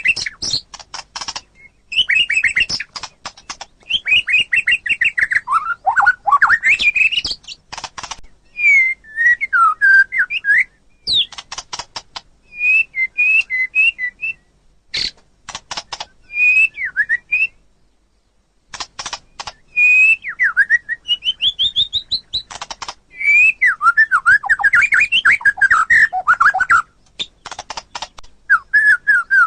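White-rumped shama (murai batu) singing a varied song of clear whistled phrases, rapid trills and clicking series, with brief pauses between phrases.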